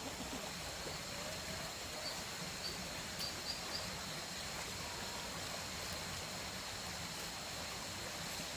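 Steady rushing of running water, like a stream, with a few faint high chirps about two to four seconds in.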